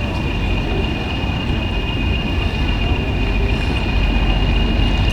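Train running along the track: a steady rumble with a thin, constant high whine over it, growing a little louder near the end.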